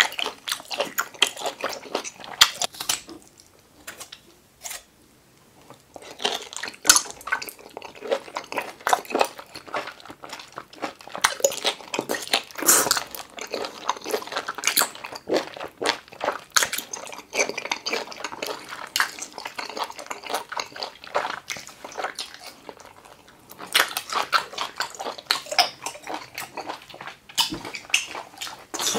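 Close-miked wet chewing of an octopus tentacle: a dense run of sticky mouth smacks and clicks, with a brief quieter pause a few seconds in.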